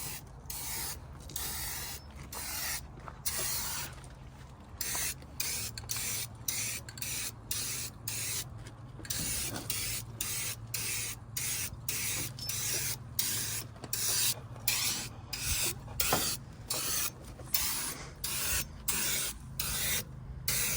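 Aerosol spray-paint can being sprayed in many short hissing bursts, a little more than one a second, with brief pauses between them. A steady low hum runs underneath.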